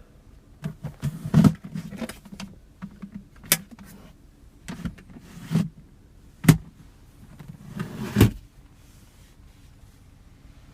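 Lid and latch of the center console storage compartment in an SUV cabin being worked by hand: a series of plastic clicks and knocks, four of them sharper, with softer handling noises between.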